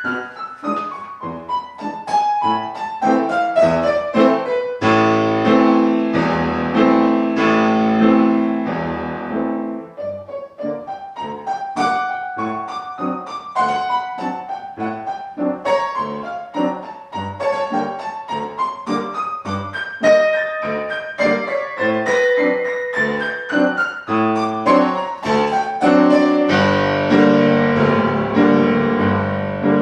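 Classical piano music: quick runs that fall and rise in pitch, broken by fuller, louder chords about five seconds in and again near the end.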